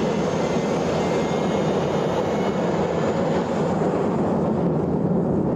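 Jet aircraft engine running with a steady, loud rushing noise, plausibly the F-105 Thunderchief's turbojet. The high end thins slightly toward the end.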